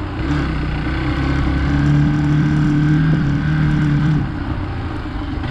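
Hero Xpulse 200 single-cylinder motorcycle engine under steady throttle off-road, its note held for about four seconds and then easing off as the throttle closes, with wind and tyre noise beneath.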